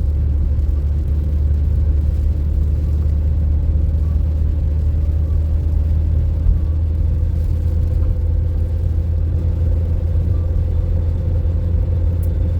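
A car being driven: a steady low rumble of engine and road noise, with a faint steady hum above it.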